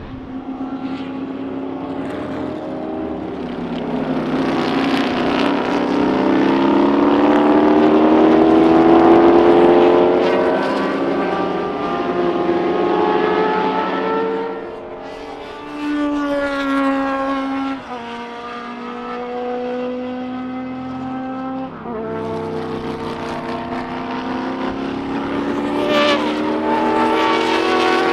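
Historic racing sports car engines at full throttle as cars pass in succession, their pitch rising and falling, with several abrupt pitch drops from gear changes. The sound is loudest about nine seconds in.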